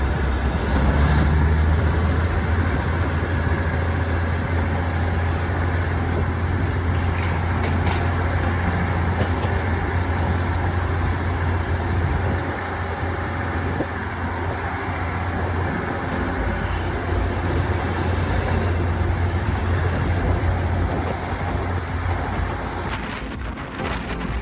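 Diesel train running, a steady deep engine hum over a rumbling noise; the hum fades away near the end.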